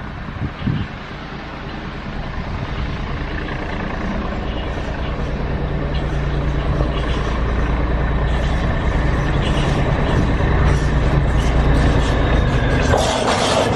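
A train approaching with a steady low engine drone that grows steadily louder. About 13 seconds in, a loud rush of wheel and rail noise sets in as it passes close by.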